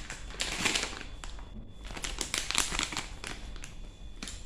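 Plastic candy wrapper crinkling as it is handled, in two bursts of rustling, about half a second in and again about two seconds in.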